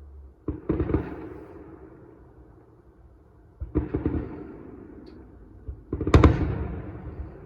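Fireworks going off: three loud bangs about three seconds apart, each followed by a crackling rumble that dies away.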